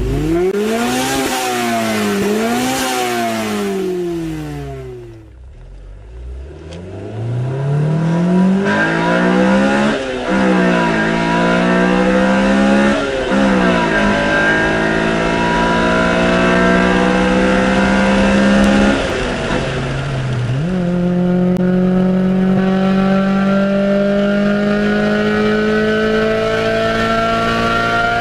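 Honda Civic Type R EK9's 1.6-litre four-cylinder VTEC engine revved twice, then pulled hard through the gears: the pitch climbs in each gear and drops at each upshift, about three shifts, with the last gear climbing slowly.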